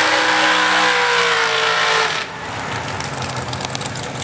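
Race car engine running at full throttle: its pitch climbs, then holds, and it cuts off suddenly about two seconds in. After that a big engine idles with a rough, pulsing beat.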